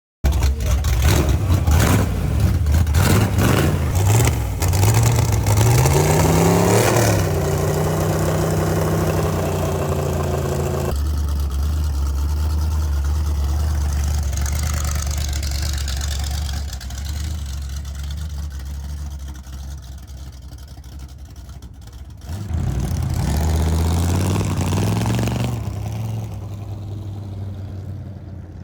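Engine of a custom-built rad-rod buggy revving repeatedly for about the first ten seconds, then settling to a steady low idle. It is revved up and down again a little past the twenty-second mark.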